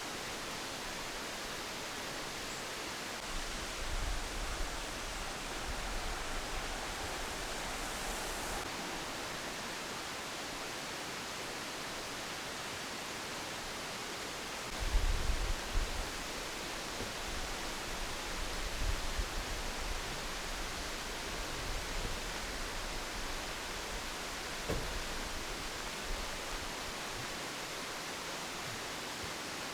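Steady outdoor hiss with wind buffeting the microphone in a few low gusts, the strongest about halfway through.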